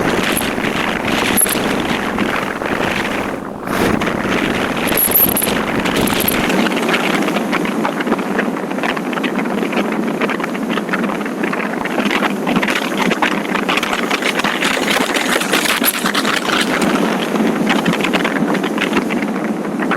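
Steady rush of riding wind over the microphone on a moving motorcycle, with road and engine noise underneath; it dips briefly a few seconds in.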